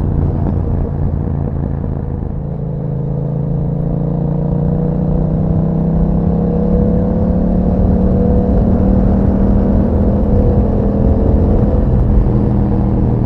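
Yamaha MT-07's parallel-twin engine through an Akrapovič exhaust, pulling under steady acceleration with its revs climbing slowly for most of the time, then dropping back near the end.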